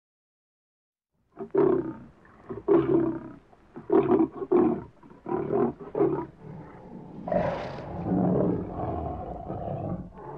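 Lion vocalizing: after a short silence, a run of seven or eight short, loud grunting calls about half a second apart. Near the end comes a longer, rougher drawn-out call.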